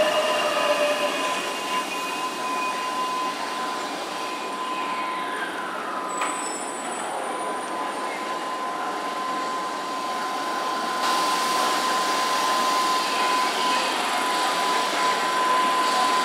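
Keihan 7000 series electric train pulling in and braking to a stop: its motor whine falls in pitch over the first second and again a few seconds later, over rolling and brake noise, with a steady high tone throughout and a single click about six seconds in.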